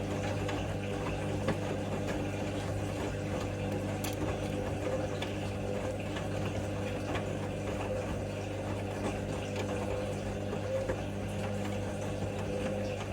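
Hoover Link front-loading washing machine at the start of its final spin, its motor and drum running with a steady hum and faint light clicks.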